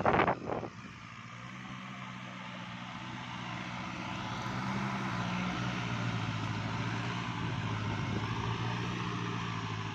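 Kubota farm tractor's diesel engine running steadily under load, slowly growing louder. A brief burst of wind on the microphone at the very start.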